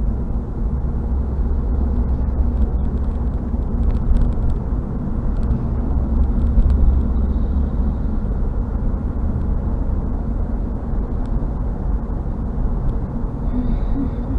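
Steady low road rumble of a car driving at speed, with tyre and engine noise heard from inside the cabin.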